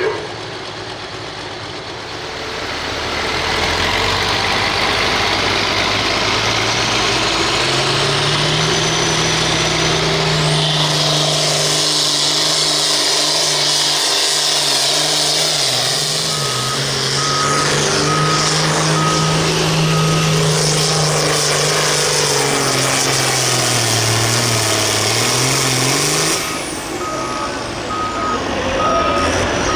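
Turbocharged diesel farm tractor making a pull in the turbo stock class. The engine loads up with a rising turbo whistle about ten seconds in and holds at full power, dips near the end, then backs off. A repeated electronic beep sounds through the second half.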